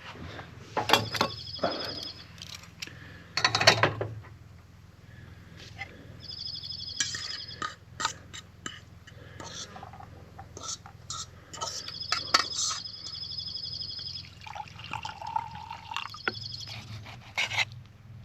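Liquid sloshing and metal clinks from a cooking pot of meat and broth being handled over a campfire, loudest about a second in and again near four seconds. A high pulsing trill repeats several times in the background.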